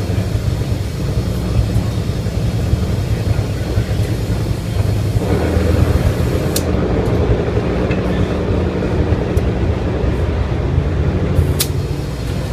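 A loud, steady mechanical drone, like a nearby engine or machine running, with a brighter layer coming in about five seconds in and a few sharp clicks.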